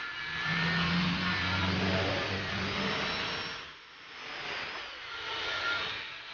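Electric angle grinder polishing stainless steel, its motor running under load with a faint high whine. The level dips briefly about four seconds in, then picks up again.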